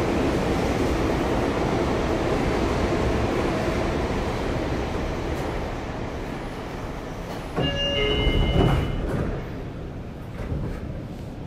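Running noise aboard a Sotetsu 8000 series electric train with Hitachi IGBT-VVVF drive, fading steadily as the train slows for a station. About eight seconds in comes a sudden burst of hissing with brief high squealing tones, and a smaller burst about two seconds later.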